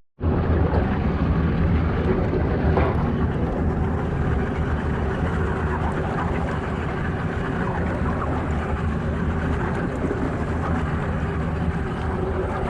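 Fishing boat's engine running steadily at low revs, a low hum under wind and water noise.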